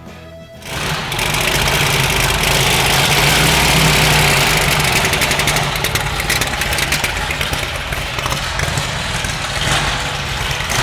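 The Essex Wire Cobra race car's 427 Ford V8 starts up less than a second in and runs loudly, loudest for the first few seconds, then settles slightly lower. The cold big-block engine is hard to keep running.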